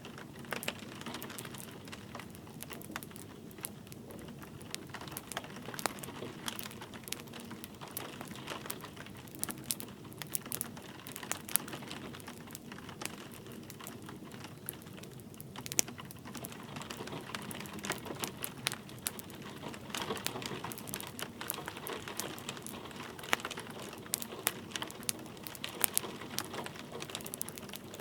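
Wood fire crackling and popping with irregular sharp snaps, over a steady patter of light rain.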